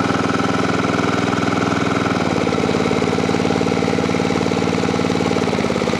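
Honda E1500 portable generator's engine running steadily; its note changes about two seconds in.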